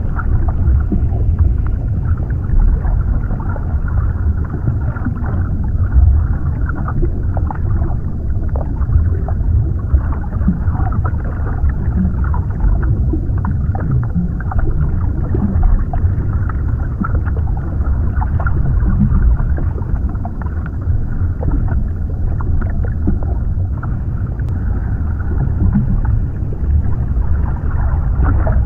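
Underwater ambience: a steady, deep, muffled rumble with small pops and bubbling clicks scattered through it.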